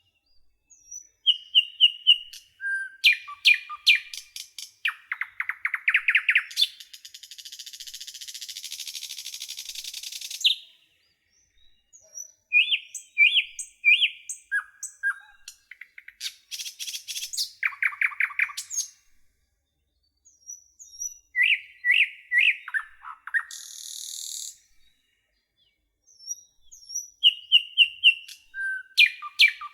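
Garden songbirds singing in short phrases of chirps, whistled notes and rapid trills, with quiet gaps between phrases. A high, hissy buzz runs for about three seconds early on and briefly again about two-thirds of the way through.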